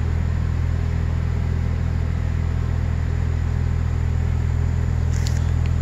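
Porsche 911 Turbo's turbocharged flat-six idling: a steady, even low hum.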